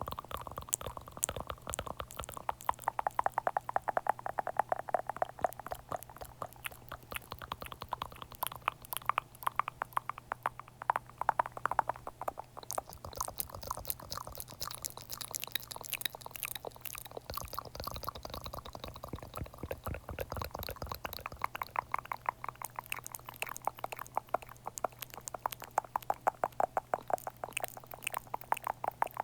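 Close-miked ASMR mouth sounds: rapid wet clicks and smacks, many a second, over a faint steady hum.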